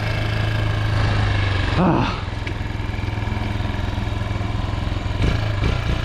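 Chinese 250 cc dirt bike engine running steadily, with a short rev that rises in pitch about two seconds in and then settles lower. The rider says this bike bogs when the throttle is opened.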